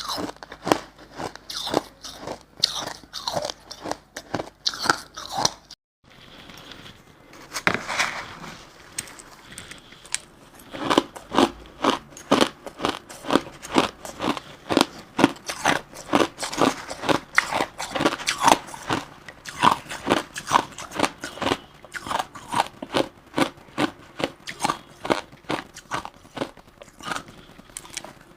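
Crushed ice being bitten and chewed close to the microphone: a run of sharp crunches. It cuts out briefly about six seconds in and comes back softer, then from about ten seconds on the crunching is dense and steady, about two or three crunches a second.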